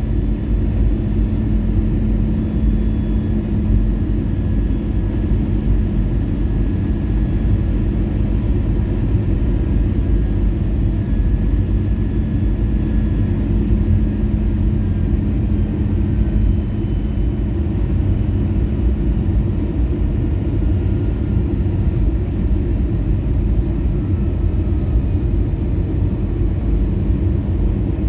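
Cabin noise inside an Airbus A320 on its descent: a steady rush of airflow over the fuselage with the CFM56 engines' drone beneath it. A low steady hum in the mix drops out about two-thirds of the way through.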